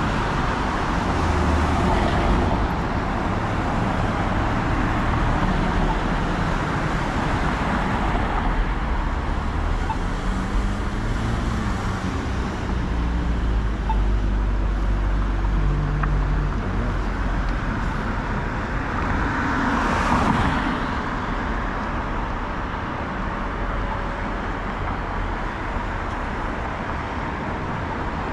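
Steady city street traffic, cars and engines rumbling past, with one vehicle passing close about two-thirds of the way through.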